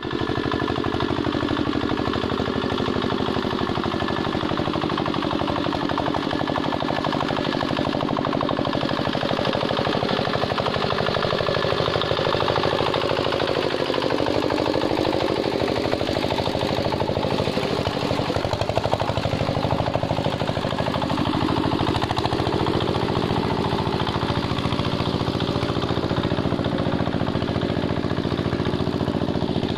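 Two-wheel hand tractor's single-cylinder diesel engine running steadily under load while ploughing a muddy rice paddy. Its pitch sags and recovers a couple of times as the load changes.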